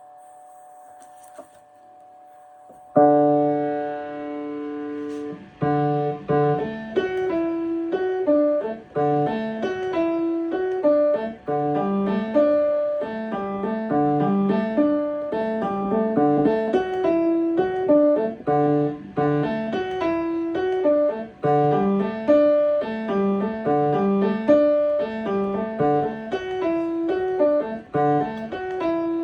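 Piano playing. A chord is struck about three seconds in and held, then a steady stream of evenly paced notes follows, with a low accompaniment moving under a higher line.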